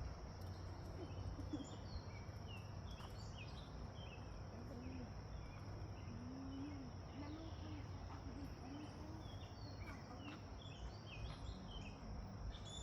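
Small birds chirping over a steady high-pitched insect drone, with a faint low rumble underneath. A run of low rising-and-falling notes comes in the middle.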